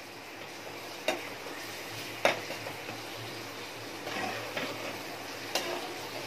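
Chopped onions frying in hot oil and ghee, a steady sizzle, with a spatula stirring them and knocking against the pan three times.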